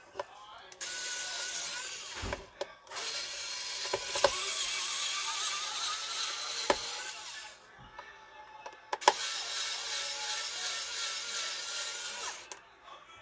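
Small electric screwdriver running in three bursts of a few seconds each, with a faint wavering whine, backing out the screws of a multimeter's case.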